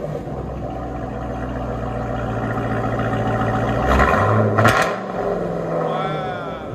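Jeep Grand Cherokee Trackhawk's supercharged 6.2 L V8 running through a Corsa Xtreme cat-back exhaust with quad tips. The exhaust note builds steadily, revs briefly about four seconds in, then drops back.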